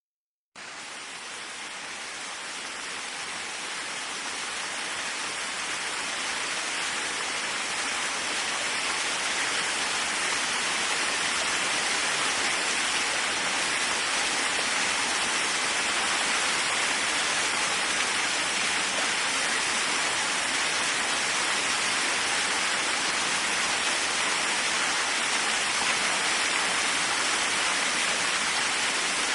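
Waterfall: a steady rush of falling water that starts about half a second in and fades up over the first ten seconds or so, then holds even.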